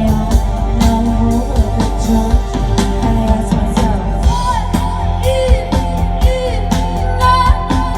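Live rock band performing: a singer holding long, wavering notes over steady drum hits, electric guitar and a heavy bass.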